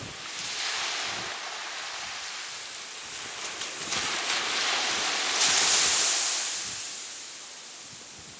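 Ocean surf on the beach: waves washing up the shore as a steady hiss that swells, is loudest about five to six seconds in, then dies away.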